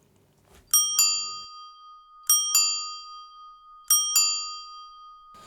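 A bell sound file played back from a soundboard button, heard as three double dings about a second and a half apart, each strike ringing on and fading.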